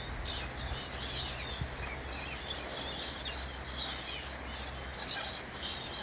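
A flock of galahs chattering, with many short, high calls overlapping throughout, over a low steady rumble.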